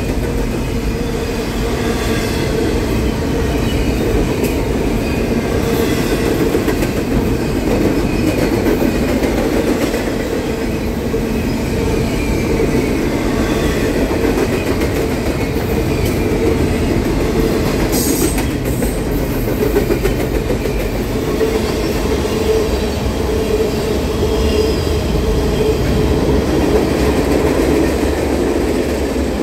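Double-stack intermodal freight cars rolling past close by: a steady rumble and rattle of steel wheels on rail, with faint high wheel squeals now and then.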